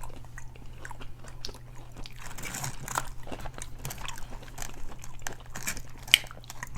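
Crunchy fried food, chicken wings and onion rings, being bitten and chewed close to the microphone: irregular crisp crunches and mouth sounds, with one sharp loud crunch a little after six seconds, over a steady low hum.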